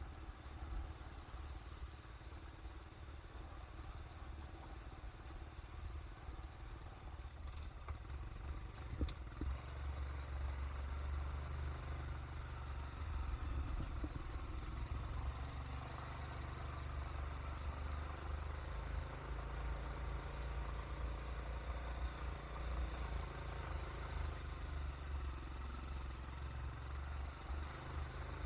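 Steady rumble of a moving vehicle: engine and road noise, with a short sharp knock about nine seconds in.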